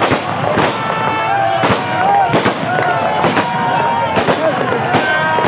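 Aerial fireworks bursting overhead: a rapid, irregular run of sharp bangs, about one or two a second.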